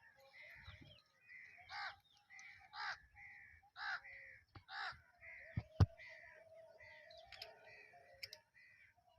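Crows cawing again and again, about once a second, with a single sharp click about six seconds in.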